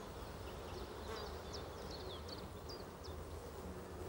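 Faint outdoor country ambience: a scatter of short, high bird chirps over a low, steady rumble.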